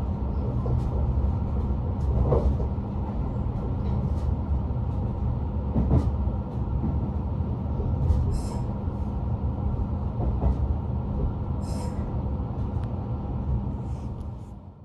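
Electric commuter train heard from inside the passenger car as it pulls into a station: a steady low rumble of wheels on rails, with occasional sharp clicks and two short hisses. The sound fades out at the very end.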